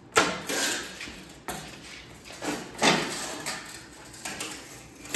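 Sheet-steel patch panel being handled and worked for bending, giving several separate metallic clanks and rattles, each fading quickly.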